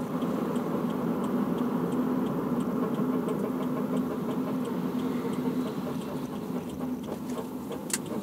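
Toyota Vios braking, heard inside the cabin: a steady low hum over the running engine, fading after about six seconds. It is the abnormal brake noise whose cause the owner does not know, and it is loud.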